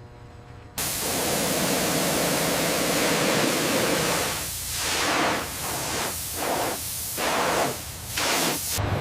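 Loud hissing noise that starts suddenly about a second in and keeps going, broken by several short dips in the second half.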